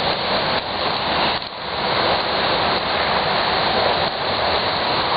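A steady, loud rushing noise with no pitch, running evenly throughout.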